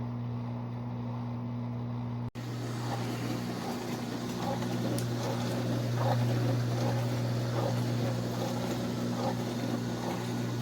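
COMFEE' portable countertop dishwasher running a wash cycle: a steady pump-motor hum with water spraying and splashing inside the tub. The sound cuts out for an instant about two seconds in, then continues a little louder.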